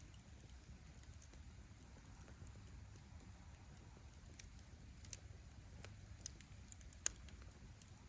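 Wood campfire burning: a low steady rumble of flames with scattered faint crackles of firewood, and three sharper pops in the second half, the last one the loudest.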